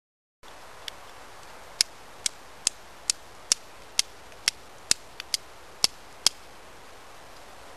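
Carbon-steel knife blade struck again and again against a fire-starting stone to throw sparks: a series of about a dozen sharp metallic clicks, roughly two a second, stopping about two-thirds of the way through.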